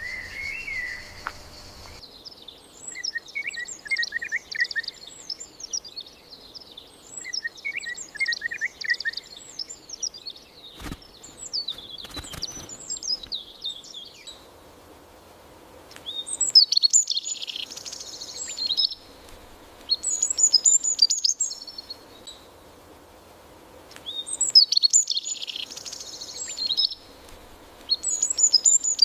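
Songbirds singing in short, repeated chirping phrases, with louder bursts of song about every four seconds in the second half. A steady high insect trill at the start stops suddenly about two seconds in.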